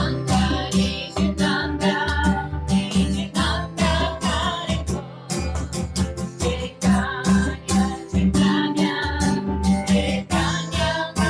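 Kirtan music: acoustic guitar strumming to a steady beat, with voices singing a melodic line over it.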